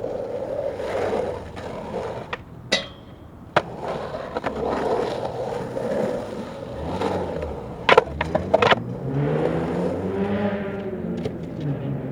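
Skateboard wheels rolling on concrete, with sharp clacks of the board hitting the ground a few seconds in and a quick cluster of them about eight seconds in.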